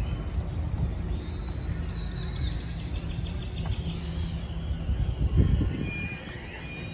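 Outdoor ambience: a steady low rumble, swelling briefly about five seconds in, with birds chirping.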